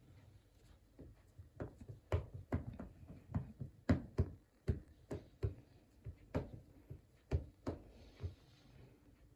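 A run of sharp, irregular taps or knocks, about two to three a second, starting about a second and a half in and stopping shortly before the end.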